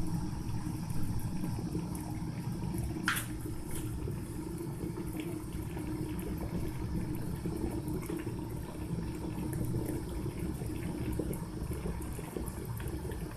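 Orion electric kettle with about a litre of water heating at the boil, a steady low rumbling and bubbling. A single short click about three seconds in.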